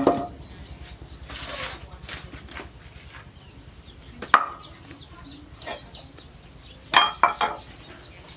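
Chickens clucking now and then, among a few sharp knocks. The busiest moment is a quick run of three or four sounds near the end.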